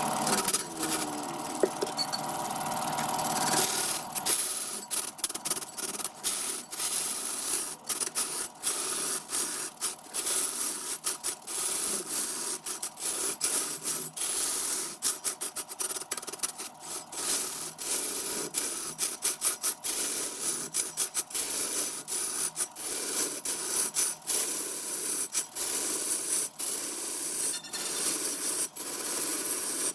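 Turning tool scraping and cutting wood spinning on a wood lathe, in quick irregular strokes with short breaks. For about the first four seconds a steady machine noise with a held tone runs alone, then stops.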